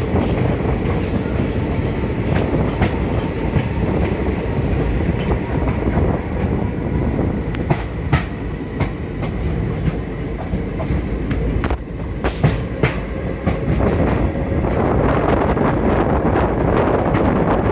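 Moving passenger train running along the track: a steady rumble with sharp clacks of the wheels over the rails now and then. A louder rushing noise comes in near the end.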